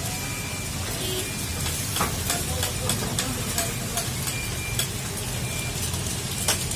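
Eggs frying in hot fat on a large flat iron pan, sizzling steadily, with clicks and scrapes of long metal spatulas stirring them against the pan.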